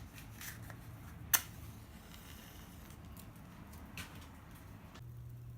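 Small wood and tissue fire catching in a compact steel fire stand: faint crackling ticks with a sharp pop about a second in and a smaller one near four seconds. The crackling stops abruptly near the end.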